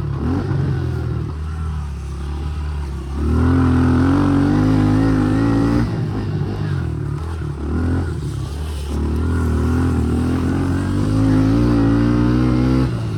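Honda CRF110 dirt bike's four-stroke single-cylinder engine running close to the microphone under changing throttle. It is held high for a few seconds from about three seconds in, eases off, then comes up again from about nine seconds.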